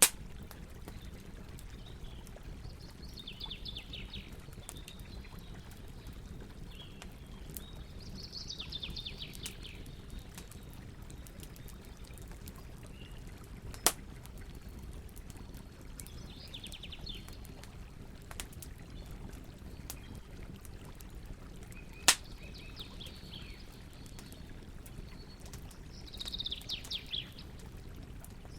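Campfire burning with a steady low rush and a few sharp, loud pops, while a songbird repeats a short, falling trilled phrase about every four to five seconds.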